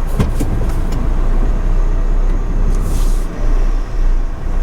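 Car transporter lorry's diesel engine running with a steady low rumble, heard from inside the cab, with a short hiss about three seconds in.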